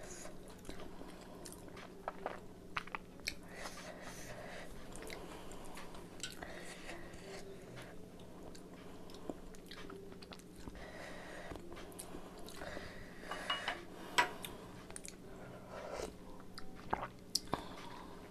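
A person chewing and biting chicken momos close to the microphone, with scattered sharp mouth clicks over soft, wet chewing.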